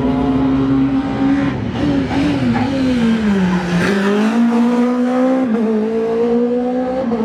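Rally car engine at high revs, holding steady, then dropping in pitch about halfway through before climbing again under acceleration.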